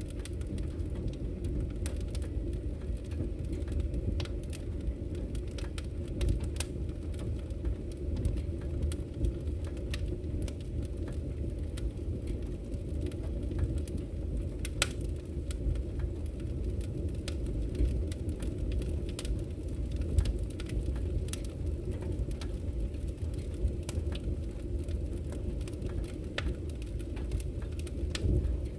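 Wood fire burning in a fireplace: a steady low rumble of the flames with frequent irregular sharp crackles and pops, a few louder snaps among them.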